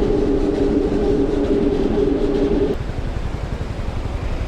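Honda Super Cub's single-cylinder four-stroke engine running under way with wind rumble on the microphone; a steady engine note drops away suddenly about two and a half seconds in, as when the throttle is eased, leaving the wind and road rumble.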